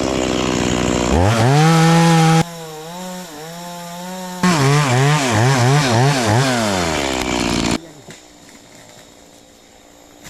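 Stihl two-stroke chainsaw running loudly at high revs, its pitch wavering up and down as the throttle is worked, then winding down and stopping near eight seconds in.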